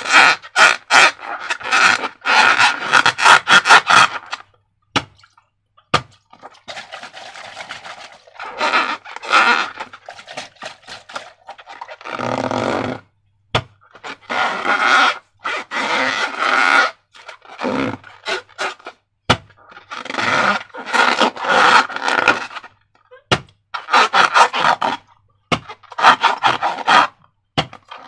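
Slime squelching and crackling as it is squeezed and worked, in repeated bursts of a second or two with short pauses and a few sharp clicks between.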